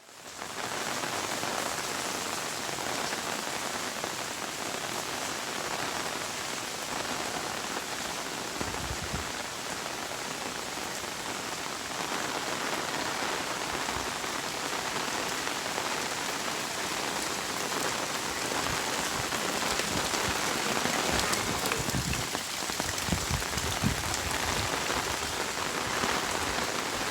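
Steady rain falling, an even hiss of drops hitting the ground. There are a few brief low rumbles about nine seconds in and again past twenty seconds.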